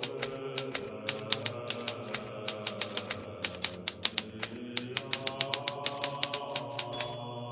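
Hermes Baby portable typewriter being typed on steadily, a quick run of sharp key strikes. Near the end the typing stops and a high ringing tone sounds.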